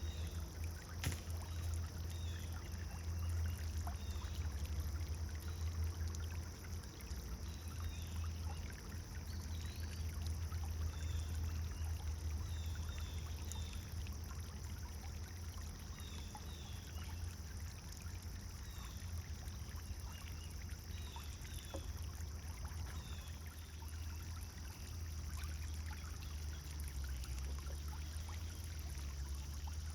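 Pond fountain water pouring and splashing steadily, with a low rumble underneath. Faint short bird chirps come and go throughout.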